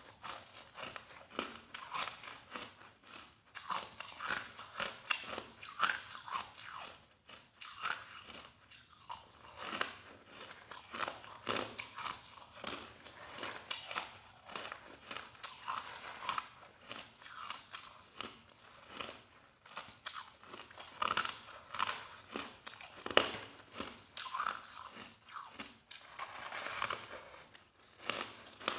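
Crushed ice being bitten and chewed, close up: continuous soft, irregular crunching.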